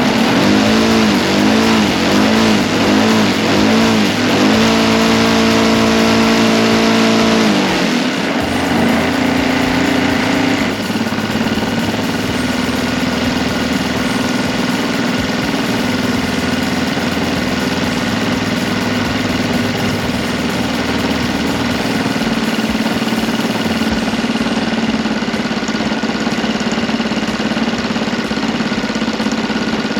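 OS GF40 four-stroke gasoline model-aircraft engine being adjusted on the ground: blipped up and down about six times in quick succession, held at high revs for a few seconds, then throttled back in two steps to a steady idle.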